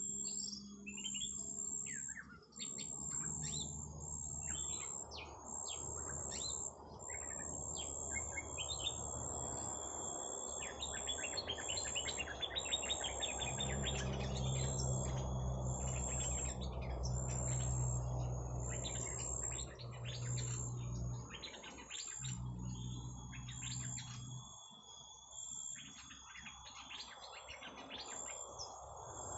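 Small birds chirping in quick, varied calls, with a rapid trill about eleven seconds in. A steady high-pitched pulsing buzz runs under the calls, and a low hum comes in about halfway through and stops a few seconds before the end.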